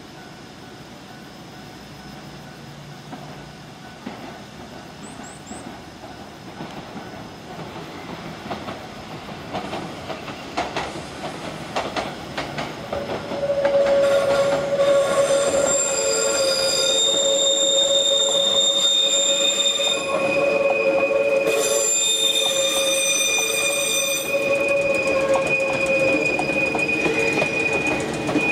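Nose Electric Railway 1700 series electric train approaching and passing close by, growing louder until it is loud from about halfway. Its wheels clack over the rails, with a high wheel squeal made of several steady tones over the running noise as the cars go by.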